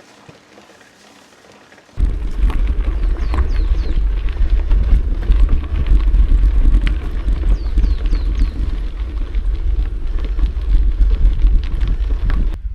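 Mountain bike rolling over a rough trail: a heavy rumble with rattling and clicking from the tyres and bike, plus wind buffeting the action-camera microphone. It starts suddenly about two seconds in, and a few short high squeaks come through.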